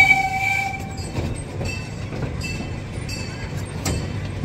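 Small amusement-park train running along its track, heard from inside an open passenger car: a steady low rumble with scattered clicks and rattles, and a brief held high tone in about the first second.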